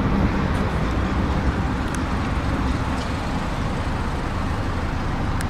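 Steady low rumble of motor vehicle noise, even in level throughout.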